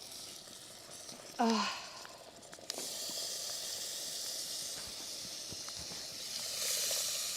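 Food sizzling and hissing in a hot pot over a campfire. It starts about three seconds in and grows louder near the end.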